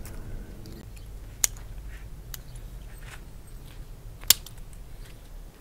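Pruning shears snipping bonsai twigs: two sharp snips, about a second and a half in and near the end, with a few fainter clicks between.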